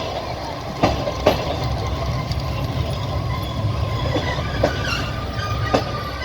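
Train wheels rolling over the track, heard from inside a moving carriage: a steady low rumble with sharp clacks over rail joints, two about a second in and two more near the end.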